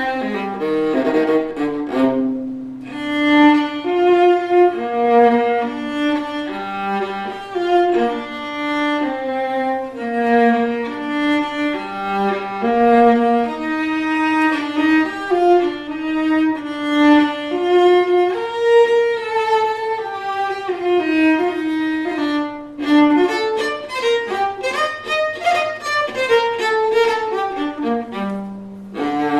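Solo bowed string instrument playing a waltz melody in sustained, singing notes, with a quicker run of short notes near the end.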